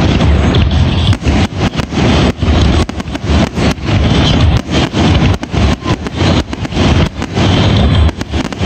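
Fireworks finale barrage: aerial shells bursting in rapid succession, several loud bangs a second overlapping into a continuous rumble. The bangs are loud enough to distort the recording.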